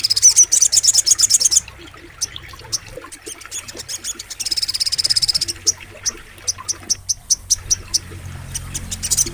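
A sogok ontong songbird singing a very fast, high, buzzy trill. The song comes in two bouts of a second or so each, with single sharp chirps between them.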